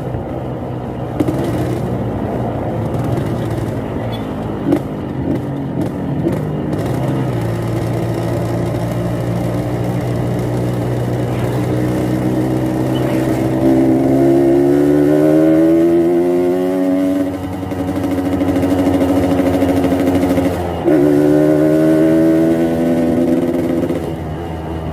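Yamaha RX-King two-stroke single-cylinder motorcycle engine idling, then revved: the pitch climbs about halfway through and holds for a few seconds, drops back, and jumps up again a few seconds before the end. The exhaust is set up for the raspy 'ngorok' (snoring) note.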